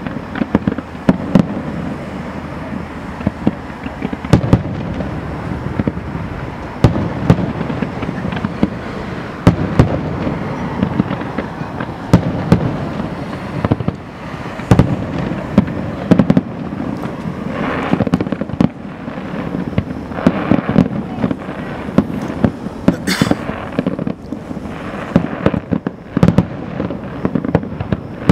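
An aerial fireworks display: shells bursting with sharp bangs about every second amid continuous crackle, with a whistling rocket rising about 23 seconds in.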